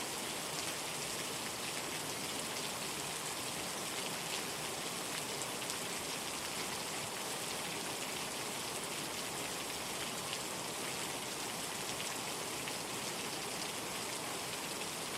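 Rain falling steadily, an even hiss with a fine patter of drops and no swells or thunder.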